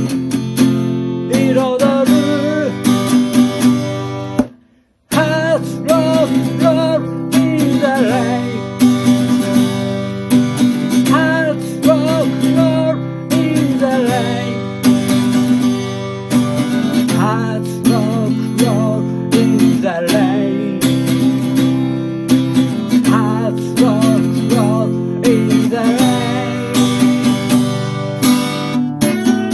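Strummed acoustic guitar music with a wavering melody line over the chords, cutting out briefly about four and a half seconds in.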